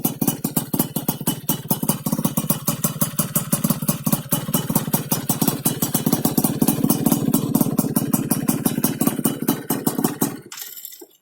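Yamaha F1ZR two-stroke engine running steadily at idle through an aftermarket under-slung stainless racing exhaust with a PDK-replica silencer: a rapid, even exhaust beat. It cuts off near the end.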